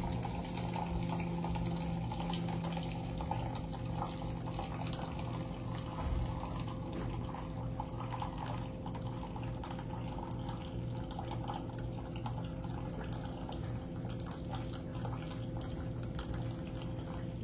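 Single-serve pod coffee machine brewing: its pump hums steadily while hot coffee runs and drips into the cup.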